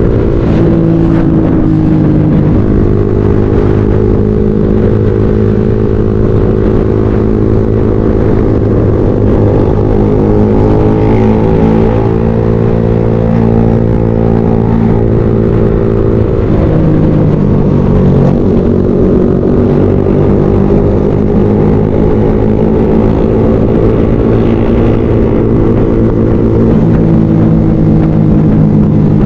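Motorcycle engine running hard while riding, its note climbing and falling with throttle and gear changes, with a clear drop in pitch a little past halfway before it climbs again.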